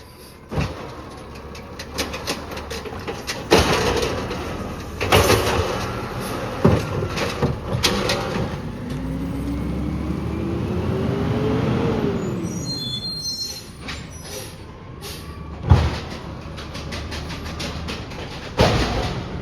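Peterbilt 320 automated side-loader garbage truck collecting: a run of bangs and clanks from the arm and clamp gripping, lifting and emptying a cart, with the engine revving up for the hydraulics for a few seconds midway and then dropping back.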